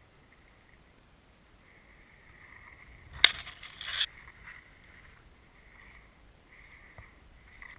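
A sharp knock, then a short rushing noise lasting under a second, over quiet outdoor ambience.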